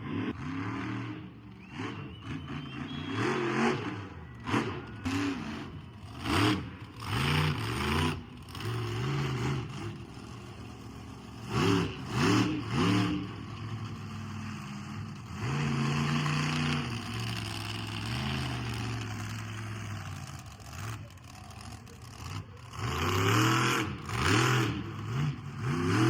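Nitro monster truck engines revving hard in repeated bursts, the pitch swooping up and down, with a steadier held stretch partway through.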